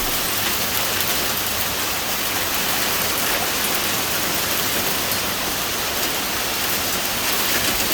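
Heavy fall of pea-sized hail: a dense, steady hiss of hailstones striking the ground and roof.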